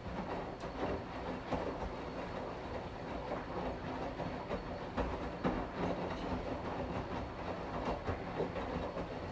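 Washing machine running: continuous churning with irregular soft knocks and rattles over a steady low hum.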